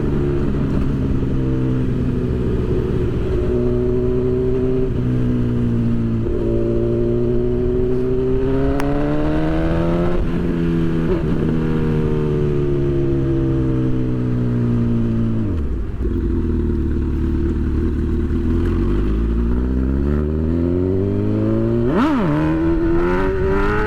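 Honda CB1000 inline-four motorcycle engine accelerating and shifting through the gears, its pitch climbing and then dropping at each shift. About two-thirds of the way through the revs fall low, then climb again, with a quick sharp rev blip near the end.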